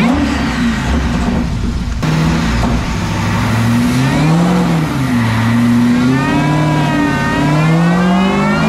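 Supercharged V8 on a chassis dyno, revving up and down and then from about six seconds in pulling steadily up through the revs under load, a whine climbing in pitch with it.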